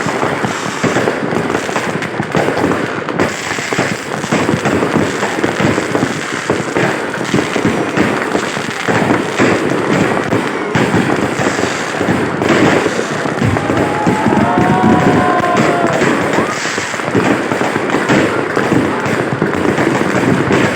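A fireworks display: a dense, continuous barrage of bangs and crackles from many shells bursting in quick succession, with no let-up.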